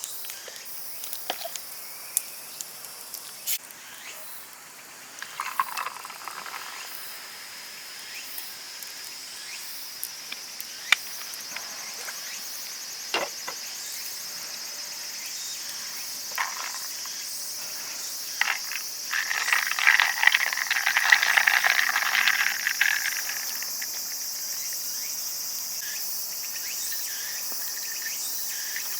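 Crickets and other insects chirring steadily in a high band, with scattered sharp clicks and knocks, and a louder rustling noise for a few seconds past the middle.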